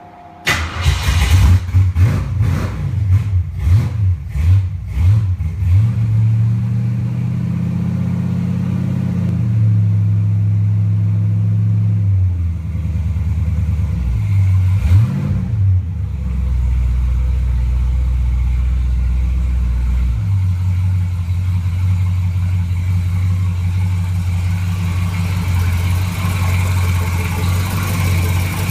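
Ford 302 small-block V8 cold-started through open lakester exhaust pipes: it fires about half a second in and is blipped with several quick revs. It then settles into a raised cold idle that steps down in stages, with one more rev partway through, and ends in a steady idle.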